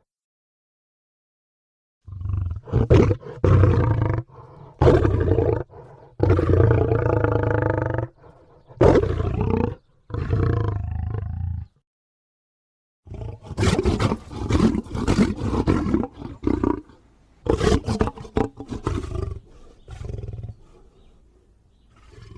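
Demonic monster-voice sound effect: a run of deep, drawn-out roars, then after a short break a string of rougher, choppier growls that trails off near the end.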